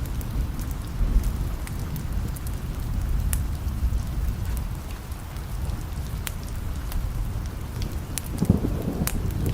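Steady rain with low rolling thunder rumbling underneath, the rumble swelling again near the end, and scattered sharp ticks and pops on top.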